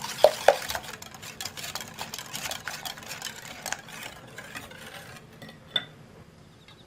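A utensil stirring and scraping batter in a mixing bowl, with two sharp taps against the bowl right at the start and another near the end.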